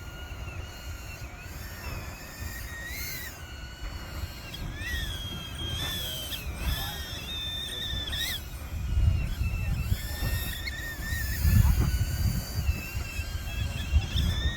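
Deep rumbling of an erupting volcano's vent as cones on the crater front throw up lava. It is steady at first and swells louder in the second half. Thin wavering high whistling tones sound faintly over it.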